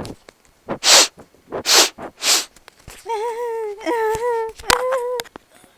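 A person crying: three loud, breathy sobbing gasps, then a wavering, high-pitched wail lasting about two seconds.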